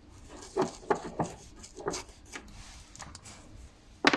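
A brake pad and its fittings being handled by hand: a series of light clicks and rubs, then a sharper knock near the end.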